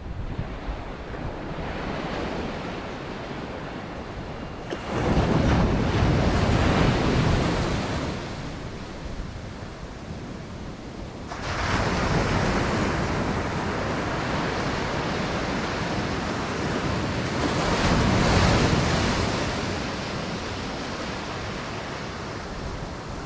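Ocean surf breaking on a beach, swelling up three times, about five, twelve and eighteen seconds in, over a steady wash, with wind buffeting the microphone.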